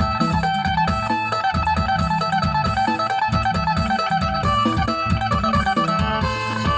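Isan phin (Thai plucked lute) music: a quick plucked melody over a steady low beat.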